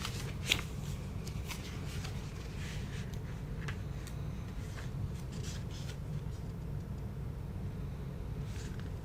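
Plastic Lego pieces being handled and pressed together: scattered light clicks, the sharpest about half a second in, over a steady low hum.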